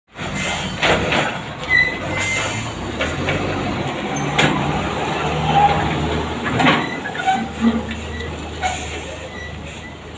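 A truck running, with repeated knocks and rattles over a steady low engine hum.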